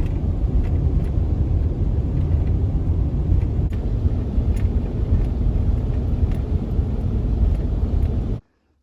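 Vehicle driving: a steady low road and engine rumble that cuts off suddenly near the end.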